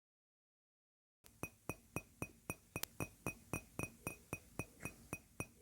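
Faint, even ticking, about four ticks a second, each tick with a short high ping, starting a little over a second in after a moment of silence.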